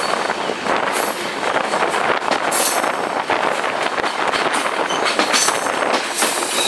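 Passenger train running around a curve, heard from on board: a steady rumble and rattle of the wheels on the rails, with a few brief high-pitched hissing or screeching swells.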